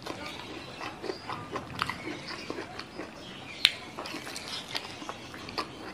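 Close-miked eating sounds: a person chewing and biting into a piece of stir-fried jumbo squid, a run of irregular mouth clicks with one sharp, loud click a little past halfway.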